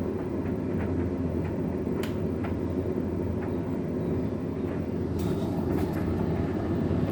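Hoover 9 kg tumble dryer running on its store-dry programme, a steady rumbling hum from the turning drum of towels, with light clicks and taps from the tumbling load, one sharper about two seconds in and a few more between five and six seconds.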